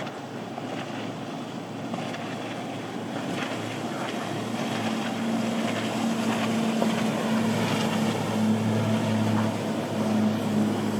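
A motorboat's engine running as the boat draws near, rising in level with a steady low hum that comes in about halfway through, over wind and breaking surf.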